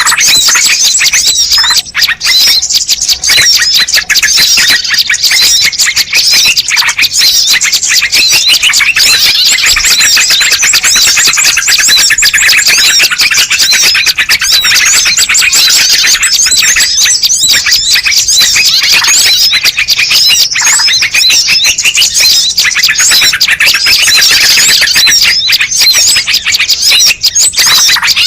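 Bird-lure recording of many small birds chirping at once: a loud, dense, unbroken chatter of rapid high chirps and short whistled glides.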